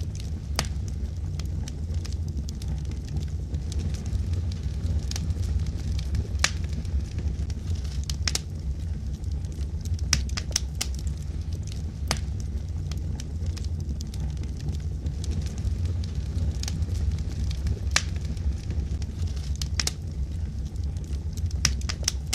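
Wood logs burning in a fireplace: a steady low rumble of the fire with irregular sharp crackles and pops.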